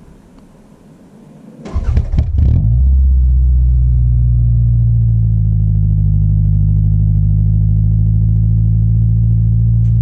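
Toyota Camry engine on a cold start: a brief rough crank-and-catch about two seconds in, then the engine settles into a loud, steady idle.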